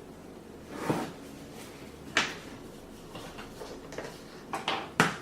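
Cardboard packaging being handled: a few knocks and scrapes, with a sharp knock about two seconds in and a quick cluster of knocks near the end.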